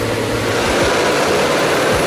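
Heavy truck engine running under load, a steady loud drone mixed with road and wind noise.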